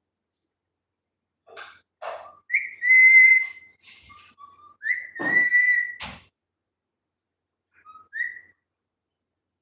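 Pet parrot whistling: two long, steady whistled notes, the first about two and a half seconds in and the second about five seconds in, with short chirps and clicks between and after them.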